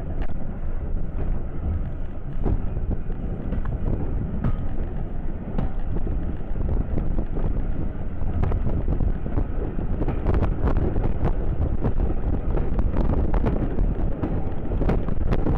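Wind buffeting the microphone, a steady low rumble, with scattered short clicks that come more often in the second half.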